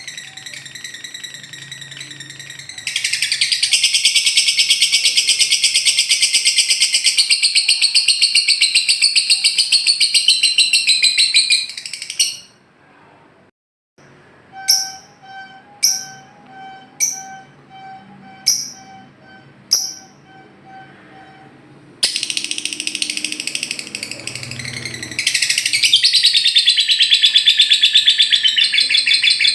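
Lovebird ngekek: a long, very rapid high-pitched chattering trill lasting several seconds, then a short pause, about six sharp chirps roughly a second apart, and another long rapid trill near the end.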